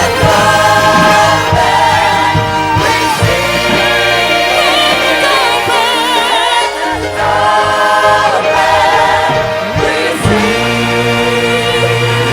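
Gospel worship music: a choir singing, with wavering held notes over steady low accompaniment.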